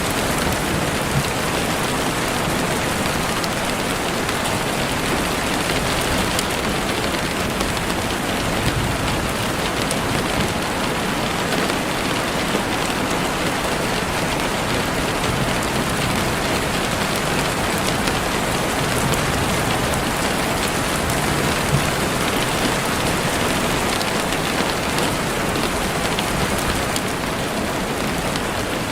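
Heavy rain falling steadily on leaves and the forest floor, a dense even hiss with scattered drop ticks.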